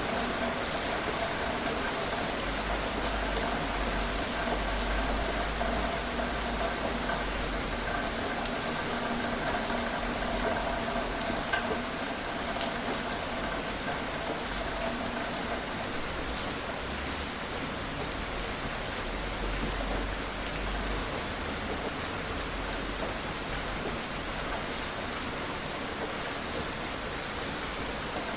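Steady gentle rain falling on surfaces, with the fine patter of individual drops.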